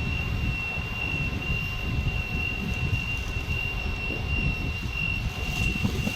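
Heavy lifting machinery running steadily as it lowers a train car: a continuous low rumble with a thin, steady high-pitched whine above it.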